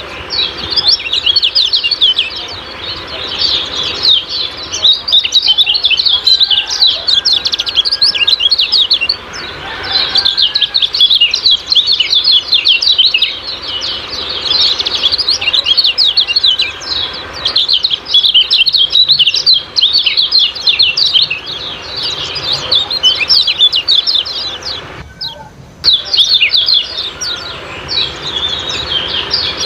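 Kecial kuning songbirds giving their rapid, high-pitched 'ciak-ciak' chatter: a dense, unbroken stream of short chirps, with a brief pause about three-quarters of the way through. This is a masteran lure call, used to stir caged birds into singing.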